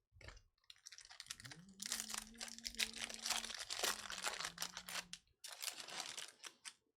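Foil card-pack wrappers being torn open and crinkled: a dense, crackling rustle with a short break about five seconds in.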